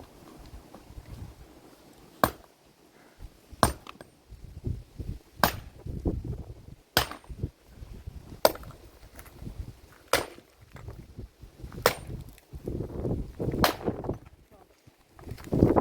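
An axe or hatchet chopping wood in steady single strikes, about one every second and a half, eight in all.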